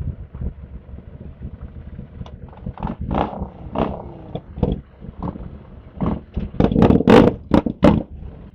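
Motorcycle engine running with revs rising and falling, joined near the end by several loud, sharp bursts of noise.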